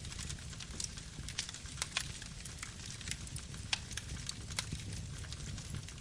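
Campfire burning: a steady low rumble of flames with frequent irregular crackles and pops of wood.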